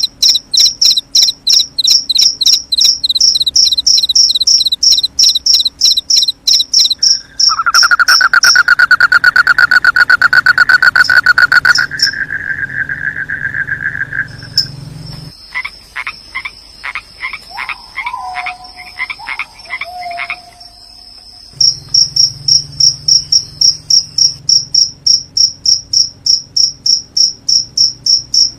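Crickets chirping in a regular rhythm, about three chirps a second. Several seconds in, a loud, lower continuous trill takes over for about seven seconds, followed by a run of quick clicks and a short falling call, among frog calls. The rhythmic chirping then returns.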